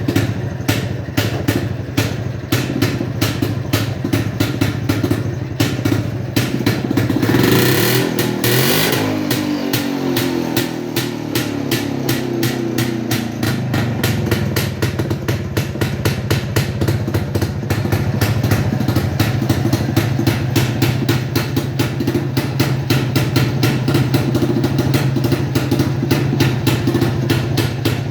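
1964 Jawa 250's single-cylinder two-stroke engine idling with a fast, even exhaust beat. About seven seconds in the throttle is blipped: the pitch climbs, then sinks back to idle over the next few seconds.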